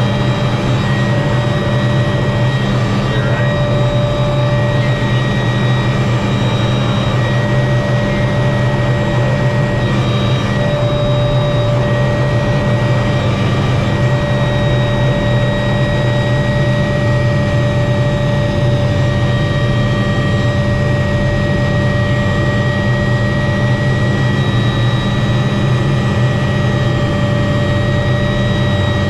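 Helicopter running steadily, heard from inside the cabin. A constant loud drone of rotor and engine runs under several steady high-pitched whines.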